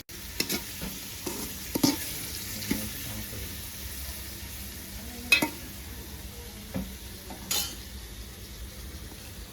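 Onion and tomato frying in hot oil in a pan with a steady sizzle, stirred with a metal spoon that scrapes and clinks against the pan several times.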